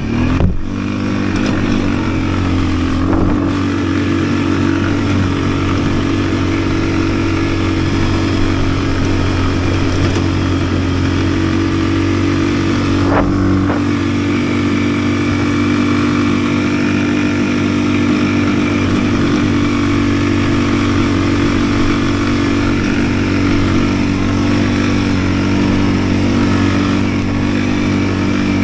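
Yuki Tract 200 ATV's engine running at a steady pace while riding, a constant hum that holds much the same pitch throughout.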